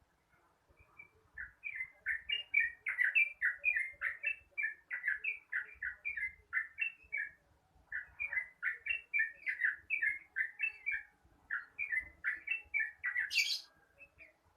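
Yellow-vented bulbul (trucukan) singing its long, rapid 'ropel' song: quick bubbly notes at about four or five a second in two long runs with a short break between. A brief harsh burst near the end.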